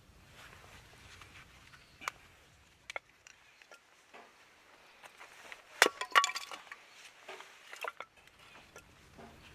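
Sharp clinks and knocks: a couple of single ones, then a quick cluster about six seconds in with a brief ringing, then a few more scattered ones.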